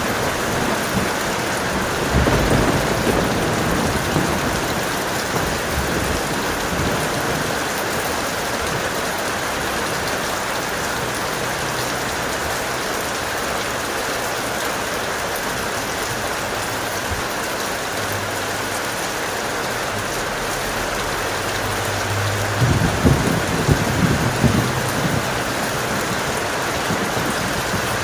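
Heavy rain falling steadily in a thunderstorm, with a low roll of thunder about two seconds in and a louder rumbling roll of thunder near the end.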